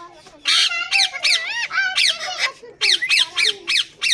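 Indian ringneck parakeet screeching: a harsh squawk about half a second in, then a loud run of shrill calls that swoop up and down in pitch, repeated several times a second.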